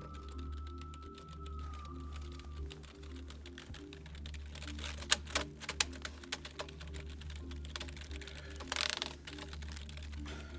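Fast typing on a computer keyboard, a run of quick key clicks with a few harder key strikes about five to six seconds in and a short rush of noise near nine seconds. Dramatic background music with a repeating low pattern plays under it.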